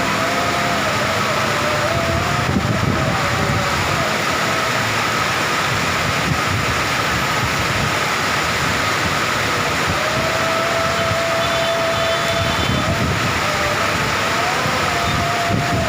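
Electrical arcing from power lines in the rain: a steady hiss and crackle with a high whine held throughout and a lower tone that wavers up and down, dropping out in the middle and returning.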